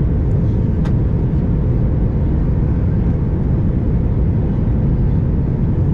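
Steady cabin roar of an Airbus A321 airliner, the engines and airflow heard from a window seat, with a faint steady hum over it. A brief click comes about a second in.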